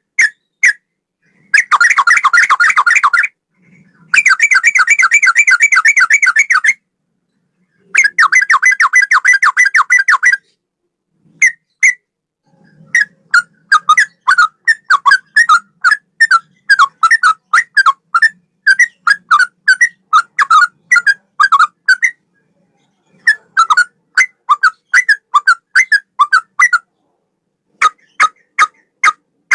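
Sooty-headed bulbul (trucukan) singing a cucak rowo–style song. It gives three rapid trills of two to three seconds each, then long strings of quick separate notes broken by short pauses.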